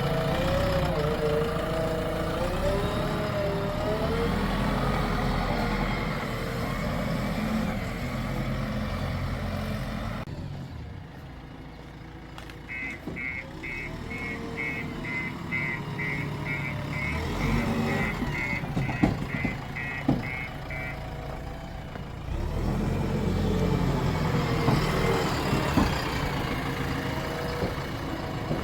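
Diesel engines of a JCB 3DX backhoe loader and tractors running under load, the pitch rising and falling at first. Around the middle a reversing alarm beeps about twice a second for some eight seconds over a quieter engine, then the engine noise grows louder again.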